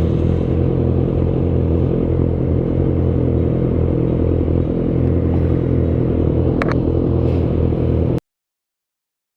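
Inline-four sport bike engine running steadily at a constant engine speed, with no revving. The sound cuts off abruptly about eight seconds in, dropping to dead silence.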